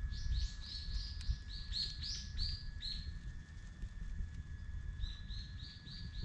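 A small bird calling: a rapid series of short, high chirps, about four a second, for roughly three seconds, then another short run near the end, over a low rumble.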